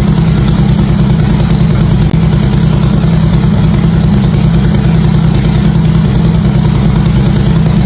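Harley-Davidson V-twin engine idling steadily through its exhaust, a loud, even, low throb with no revving.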